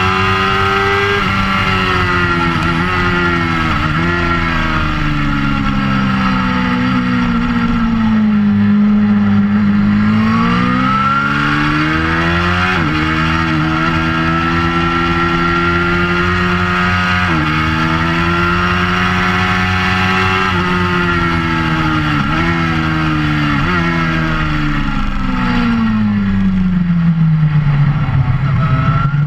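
2004 Suzuki GSX-R600's inline four-cylinder engine through an aftermarket Werx exhaust, heard onboard at speed on track. The revs fall in steps as it downshifts into corners at the start and again near the end, and in the middle climb hard with two sudden drops as it shifts up a gear.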